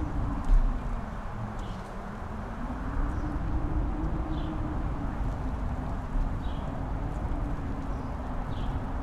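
Mountain-top wind howling: a low moaning tone that slowly rises and falls over a steady rush of wind. Gusts thud against the microphone, the strongest about half a second in.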